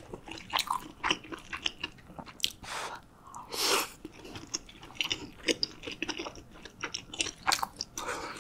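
Close-miked chewing of a soft dumpling from spicy ramyun, with frequent small wet clicks and smacks of the mouth. There is one longer, louder breathy rush about three and a half seconds in.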